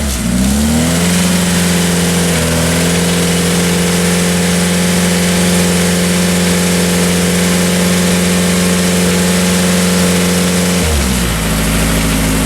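Group B rally car engine revving up in the first second, then held at a steady pitch with a small step up about two seconds in, before dropping to a lower steady pitch near the end.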